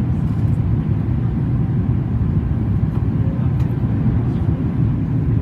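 Steady low rumble inside the cabin of a Boeing 737 MAX 8 in flight: airflow and CFM LEAP-1B engine noise.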